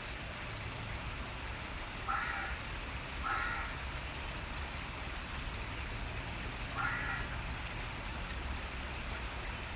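Running water with a steady rush, and a bird giving three short calls: two about a second apart, then one more a few seconds later.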